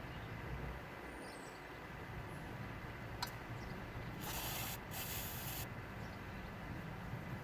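Aerosol can of starting fluid (ether) sprayed in two short hissing bursts, about half a second each, to prime a hard-starting snowblower engine whose primer is doing little. A single sharp click comes a second before the spraying.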